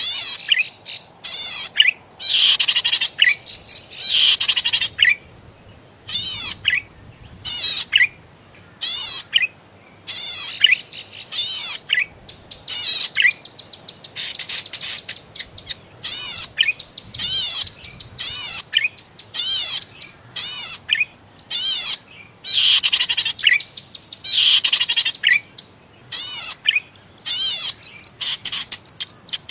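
Cici padi (zitting cisticola) singing: repeated short bursts of fast, high, wavering chirps, each a second or so long, with brief pauses between them.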